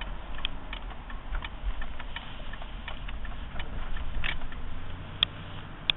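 Cabin of a 1995 Mercury Grand Marquis on the move: a low, steady rumble of engine and road, with light, irregular clicking and rattling, a few sharper ticks near the end.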